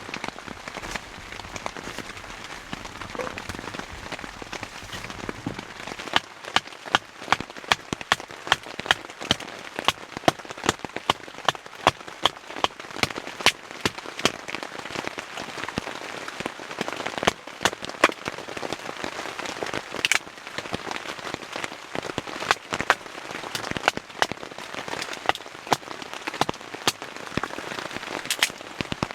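Rain falling on a tent: a steady patter with sharp, separate hits of large drops several times a second from about six seconds in.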